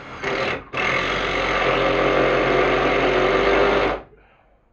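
Handheld power drill motor running: a short trigger pull, a brief pause, then a steady run of about three seconds that stops sharply.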